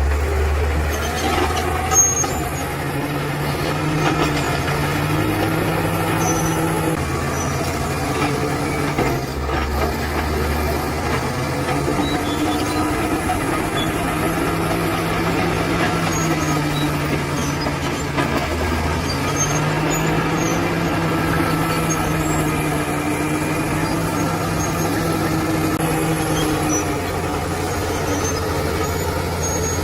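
Bulldozer's diesel engine running steadily, its pitch slowly rising and falling as it works. There is one sharp knock about two seconds in and a few faint high squeaks throughout.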